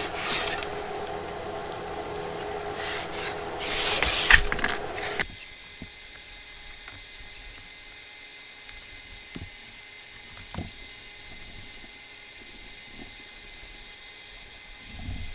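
Crumpled aluminium foil scrubbing a rusty chrome motorcycle wheel rim to polish it, a harsh scratchy rubbing, loudest about four seconds in. About five seconds in it cuts off abruptly to a quiet steady hum with a few faint ticks.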